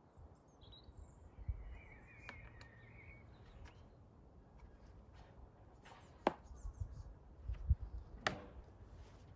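Quiet outdoor background with a low rumble and a few scattered sharp clicks or knocks, the two loudest about six and eight seconds in.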